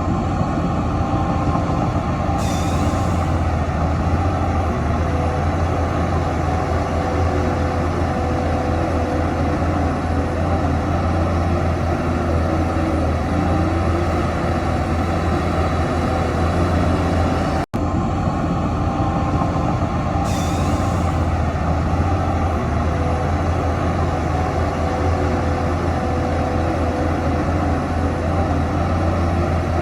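Heavy diesel earthmoving machinery running steadily under load, with a short hiss of released air twice, about two and a half seconds in and again about twenty seconds in. The sound cuts out for an instant about eighteen seconds in.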